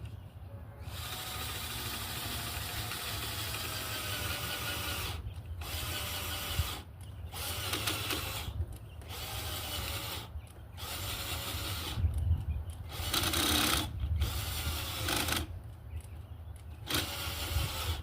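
Cordless drill running in repeated bursts into wood: one long run of about four seconds, then about seven shorter bursts. Its motor pitch sags under load during the long run.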